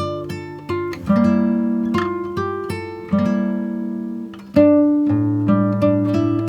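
Background music: acoustic guitar picking, with chords changing every second or two.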